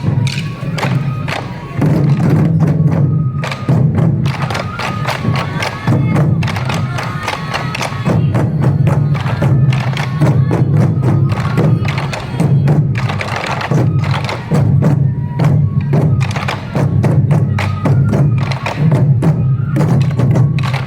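Sansa odori festival music: a troupe of taiko drums beating in a steady, driving rhythm, with a bamboo flute playing over it.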